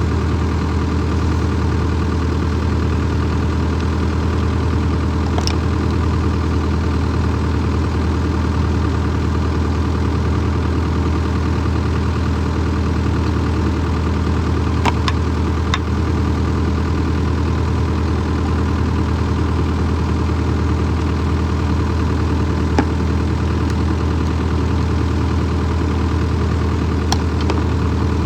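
Excavator's diesel engine idling steadily, with a few sharp metallic clicks now and then.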